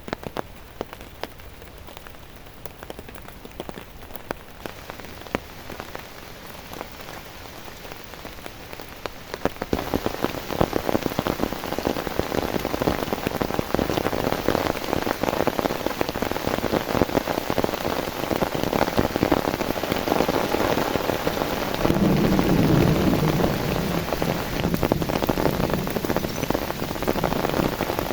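Rain falling and pattering on a surface, scattered drops at first, turning into a much denser, louder downpour about ten seconds in and growing heavier and fuller-sounding again near the end.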